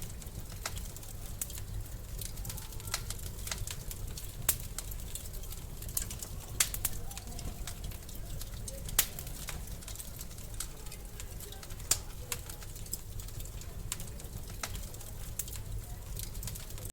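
Wood fire in a fireplace crackling over a steady low rumble of flame, with scattered sharp pops, the loudest about four and a half, six and a half, nine and twelve seconds in.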